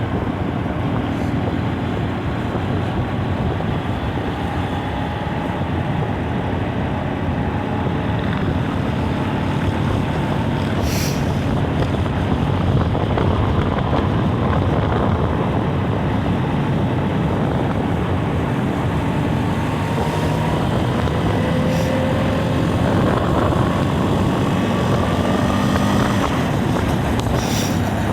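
Racing truck's diesel engine running hard at speed under a steady rush of wind noise, its pitch climbing slowly several times, with a few brief clicks.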